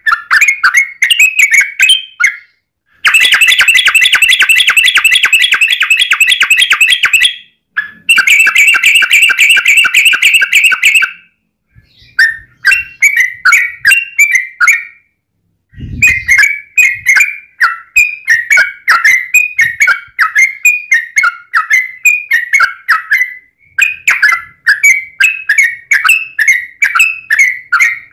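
Yellow-vented bulbul (trucukan) singing a rapid string of short chattering notes. A few seconds in, and again after a short break, it runs into long, fast continuous trills, the 'ropel' roll. Brief silent gaps break up the phrases, and there is a short low thump about halfway through.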